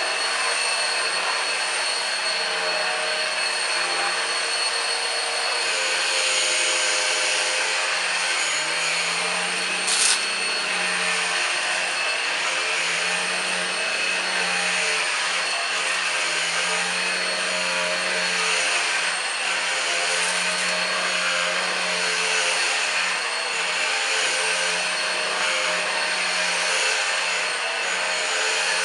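Numatic Henry Quick cordless stick vacuum running steadily with a high motor whine, its sound swelling and easing every second or two. A short sharp click about ten seconds in.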